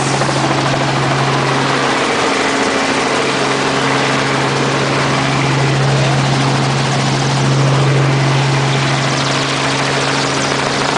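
Helicopter engine and rotors running with a loud, steady drone and a constant low hum.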